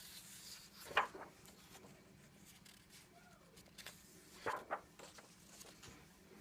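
Pages of a paperback coloring book being handled and turned: a few short paper rustles, a sharp one about a second in and two close together about four and a half seconds in.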